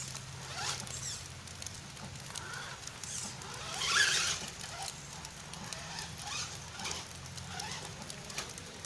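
Electric motor of an HSP Kidking RC car whining, rising and falling in pitch as it speeds up and slows, with a louder noisy burst about four seconds in.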